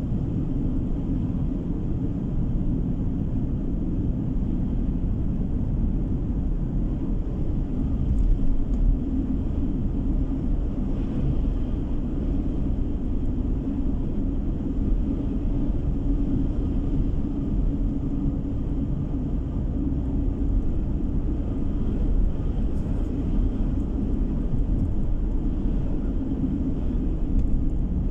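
Steady rumble of a car driving on the road, heard from inside the cabin: tyre and engine noise, with a few louder bumps about eight seconds in.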